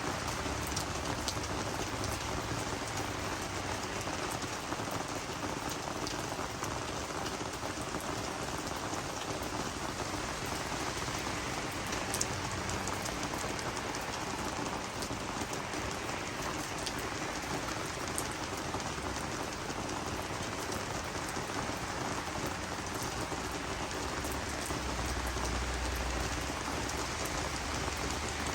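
Steady rain falling on garden vegetables and flowers, a constant hiss with many small drop ticks and one sharper drop about twelve seconds in.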